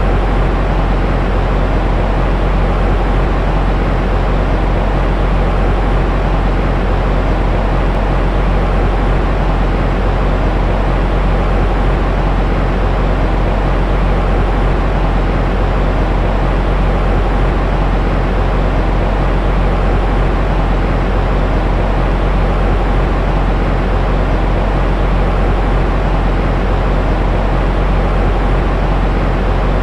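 Steady, unchanging noise for baby sleep, weighted toward a deep rumble with little hiss, like a low engine or womb-like drone.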